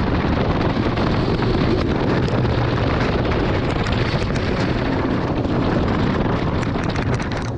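Wind rushing over the microphone while the train of a wooden roller coaster runs fast along the track, its wheels rumbling and clattering. The noise is loud and steady, easing slightly at the very end.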